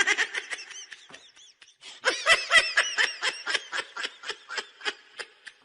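A person laughing in quick repeated bursts, a short pause about a second and a half in, then a long run of even ha-ha pulses that fades toward the end.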